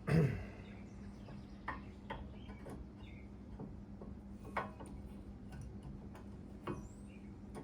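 Scattered light clicks and taps of hand work on a car's disc brake parts, about half a dozen over several seconds, with a steady low hum underneath.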